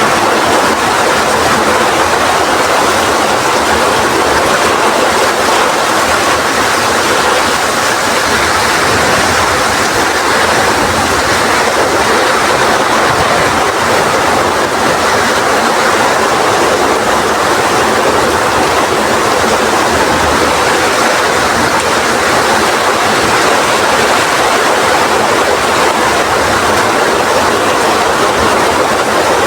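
Heavy rain falling with strong wind: a loud, steady, unbroken hiss.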